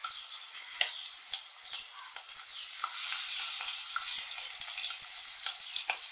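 Marinated squid pieces dropped into hot coconut oil with browned coconut slices, sizzling steadily with many sharp crackles, louder from about three seconds in.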